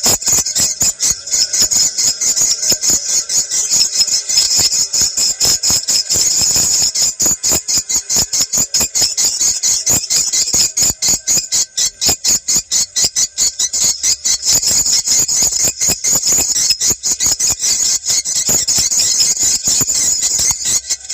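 Recorded swiftlet lure call played for swiftlet farming: a loud, dense chittering of rapid high chirps, many a second, going on without a break.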